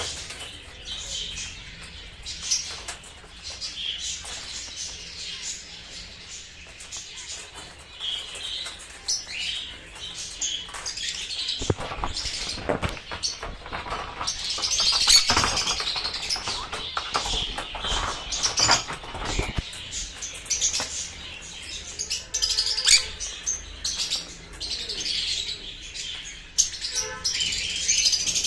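Sun conures chirping and calling in short, high, repeated notes. In the middle there is a louder stretch of rapid calls mixed with sharp clicks and rustling.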